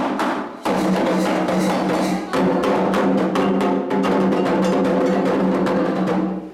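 Candomblé ritual drumming: atabaque hand drums and a struck bell playing a fast, dense rhythm over a held pitched note. The playing cuts off abruptly at the end.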